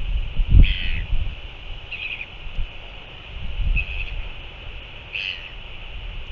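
Four short bird calls, about a second and a half apart, over low rumbling gusts of wind on the microphone.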